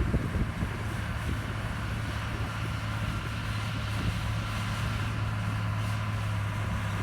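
Heavy diesel earthmoving machinery running steadily at a constant engine speed, a low even hum with a faint high whine above it.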